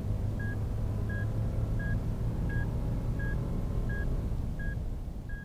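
Lexus LX570 running at idle with a low steady hum, while a vehicle warning chime gives about eight short beeps of the same pitch, evenly spaced.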